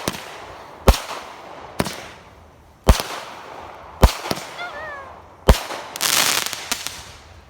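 Consumer fireworks going off: five sharp, loud bangs roughly a second apart, followed by a burst of dense crackling about six seconds in.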